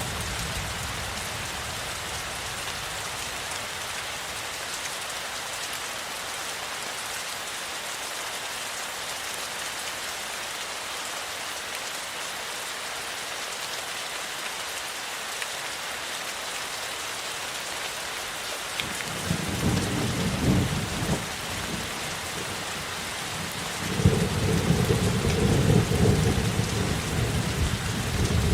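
Steady rain falling. Low rolling thunder rumbles in about two-thirds of the way through and again near the end, where it is louder and longer.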